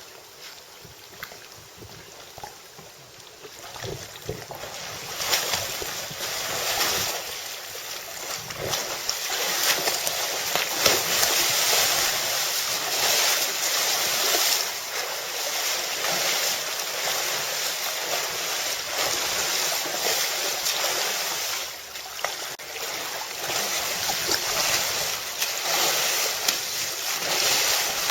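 Steady rushing of water and wind while moving over water, swelling louder about four to five seconds in, with a brief drop a little past the three-quarter mark.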